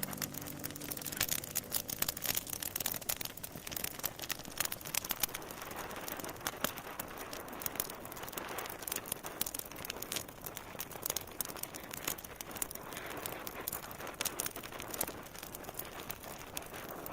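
Wood fire crackling in a fireplace: irregular pops and snaps over a soft hiss.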